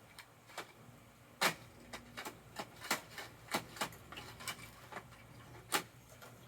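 A series of irregular sharp plastic clicks and clacks, about a dozen, the loudest about one and a half seconds in and near the end: a Bruder toy garbage truck's parts being worked by hand.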